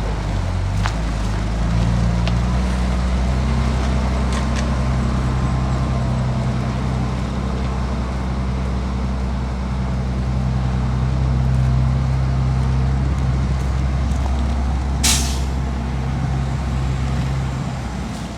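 Heavy diesel engine of earthmoving machinery running under load. It revs up about two seconds in, holds steady and eases off near the end. About fifteen seconds in there is a short, sharp hiss of air.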